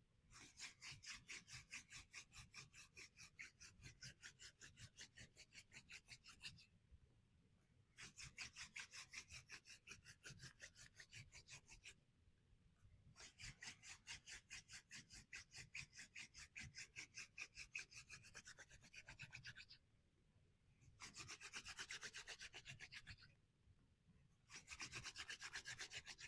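Hand drill fire by friction: a wooden spindle spun back and forth between the palms, grinding into a wooden hearth board with a quiet, rapid rhythmic scraping. It comes in five bouts of a few seconds each, broken by short pauses.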